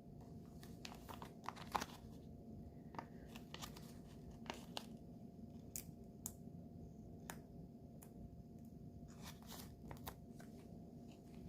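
Scattered light clicks, taps and crinkles from hands handling small nail-art tools and materials, with the sharpest click about two seconds in, over a faint steady hum.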